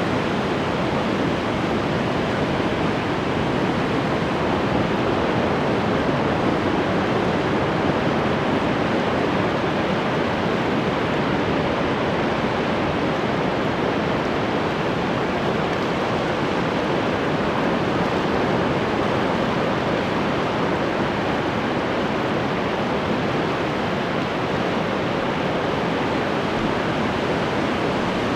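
Ocean waves washing on the shore in a steady, continuous rush, with only slight swells in loudness and no single breaker standing out.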